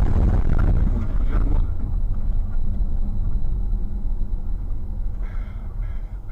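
Steady low rumble of a car driving, heard from inside the cabin through a dashcam microphone.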